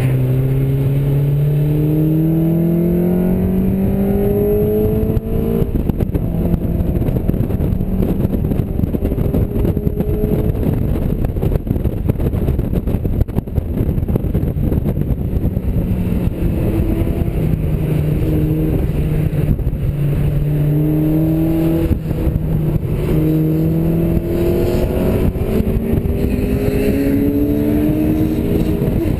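Mazda MX-5's four-cylinder engine accelerating hard, its note rising in pitch and dropping back at each upshift, over a constant rush of wind and road noise in the open cockpit. It climbs through the revs at the start, holds steadier through the middle, then climbs again through several gears near the end.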